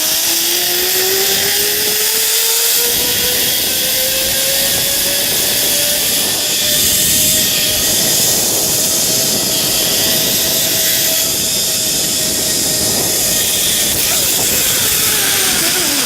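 Zipline trolley pulleys whirring along the steel cable, with wind rushing over the microphone. The whine rises in pitch as the rider picks up speed, holds steady, then drops near the end as the trolley slows.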